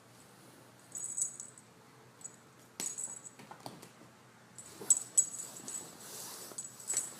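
Light metallic jingling and clinking in short ringing bursts, about five times, the first a second in and a cluster near the end.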